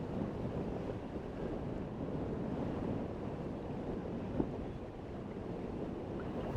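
Steady low wind noise buffeting the microphone, with one brief tap about four seconds in.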